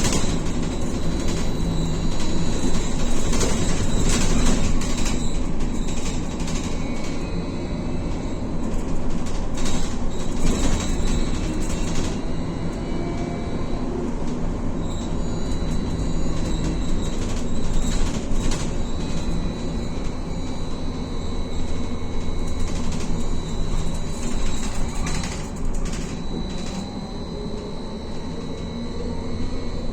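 Cabin noise of a BKM-43300D trolleybus under way: the electric traction drive's whine with a steady high tone and some rising and falling pitch, over a continuous rolling rumble, with scattered knocks and rattles from the body.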